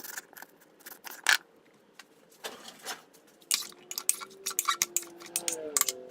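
Kitchen food-prep clatter: a run of quick clicks, knocks and clinks of utensils and dishes, with a short scrape about two and a half seconds in. A faint low hum comes in about halfway through and dips in pitch near the end.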